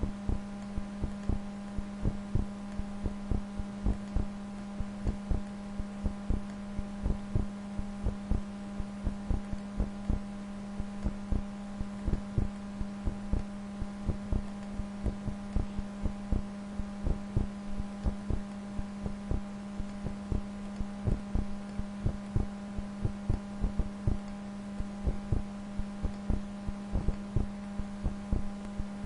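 Computer mouse clicking irregularly, a few clicks a second, over a steady electrical hum.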